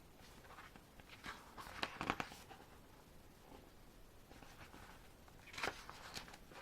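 Pages of an album photobook being turned and handled: two short bursts of soft paper rustling, about two seconds in and again near the end.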